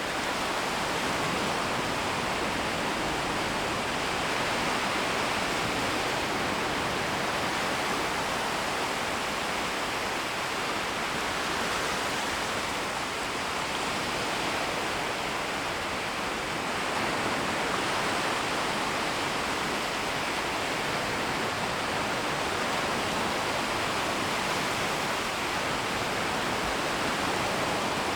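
Small, shallow waves washing continuously along a shoreline: a steady rushing hiss that swells slightly now and then.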